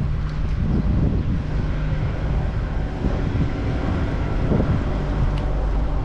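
Wind buffeting the microphone of a riding cyclist's camera, a steady low rumble, with a vehicle's steady hum in the traffic alongside.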